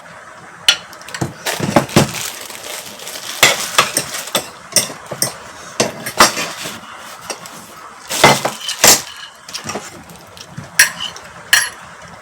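Spoon and fork clinking and scraping against plates and a bowl during a meal, in scattered irregular clicks and knocks.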